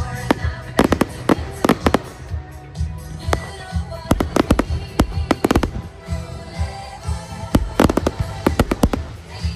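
Firework display: sharp bangs going off in quick clusters of several shots, over music with a steady beat.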